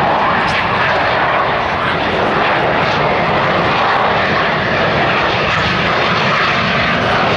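Loud, steady aircraft engine noise from a plane in flight.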